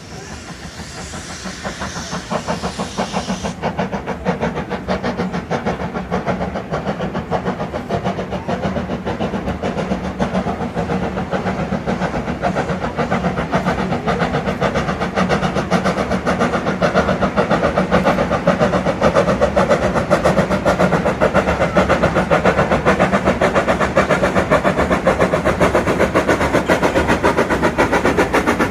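A small locomotive working along the line with a fast, even beat that grows steadily louder as it approaches. A hiss sounds for the first few seconds.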